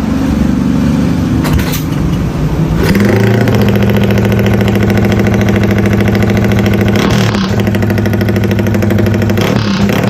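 Yamaha Y15ZR motorcycle's 150 cc single-cylinder four-stroke engine being revved: the revs fall at first, climb about three seconds in and hold high and steady, then dip briefly twice near the end.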